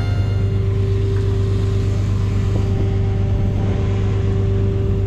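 A vehicle engine running steadily, a low, even drone with a constant higher hum over it. Music fades out in the first moment.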